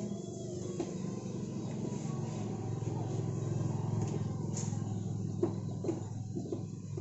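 An engine running steadily with a low hum, with a few light clicks about five to six and a half seconds in.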